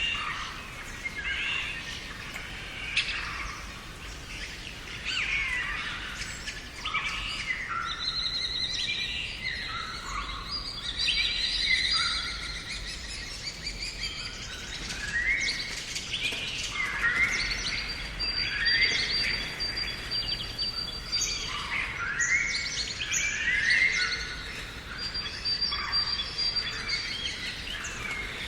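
Several songbirds singing and chirping together, many short whistled phrases and chirps overlapping, some sliding down in pitch, with a few higher held trills.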